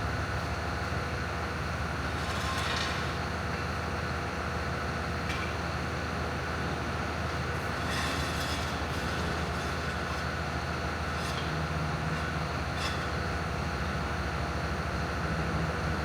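Steady low hum of running machinery, with a few brief clinks or hisses about three seconds in, near the middle and about three-quarters through.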